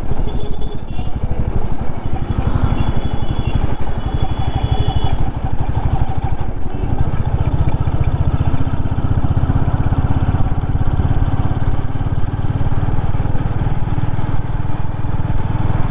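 Royal Enfield Classic 350's single-cylinder engine running steadily as the motorcycle is ridden along the road, its exhaust pulses thudding evenly.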